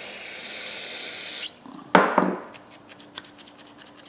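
A steady hiss for about a second and a half, then a sharp metallic snap and a run of quick light clicks as stiff, spring-actuated diagonal cutters are worked open and shut.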